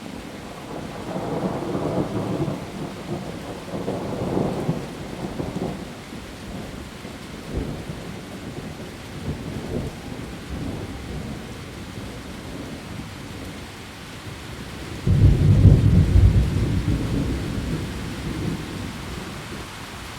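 Heavy rain falling steadily on leaves, with thunder rumbling low in the first few seconds. About fifteen seconds in, a sudden, louder peal of thunder starts and rolls away over several seconds.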